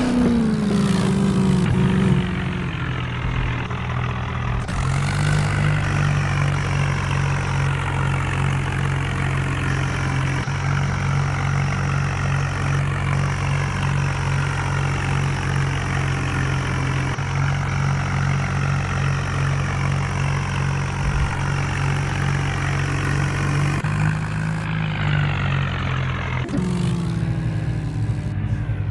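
Heavy diesel engine running steadily, its revs stepping up about five seconds in, dropping back near the end and picking up again, with a thin high whine over it while the revs are up.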